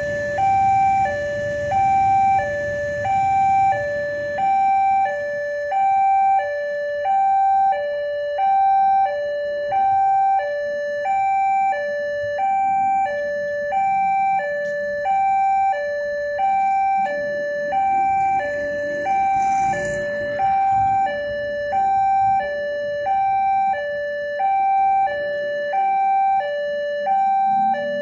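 Indonesian level-crossing electronic warning alarm sounding, alternating steadily between a higher and a lower tone, about one high-low pair a second, warning that a train is approaching. A low rumble and hiss under it fades away over the first few seconds.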